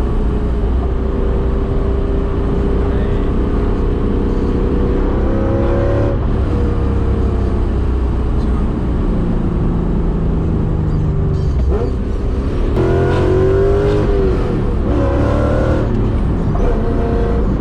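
Supercharged BMW S62 4.9-litre V8 with straight-piped exhaust and Dinan mufflers, pulling up through the revs under acceleration. The pitch rises and drops back several times as gears are changed, with the hardest, loudest pull about two-thirds of the way through.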